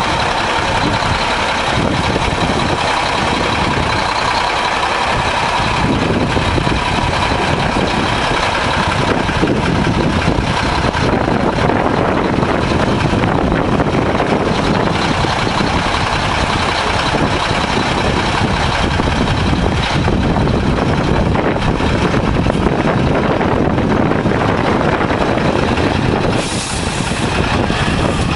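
1994 Mack truck's diesel engine running steadily, its low rumble growing fuller from about six seconds in; the sound dips briefly near the end.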